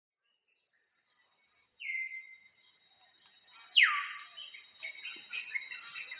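Birds calling over a steady high insect drone: a short downward whistle about two seconds in, then a louder, steeply falling whistle near the four-second mark, followed by quick repeated chirps.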